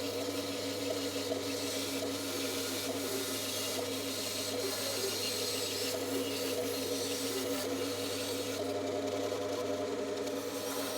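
Bandsaw running with a steady hum while its blade cuts through wood, a rough rasping noise that rises and eases as the piece is fed; the cutting noise thins out about nine seconds in.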